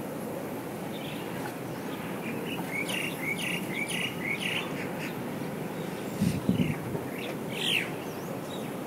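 Small birds chirping: a quick run of about eight short notes a few seconds in, then scattered single calls, one falling in pitch near the end, over steady background noise. A brief low rumble comes about six seconds in.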